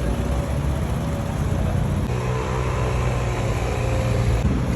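Train running, a steady low rumble with a motor hum that settles into even tones about two seconds in.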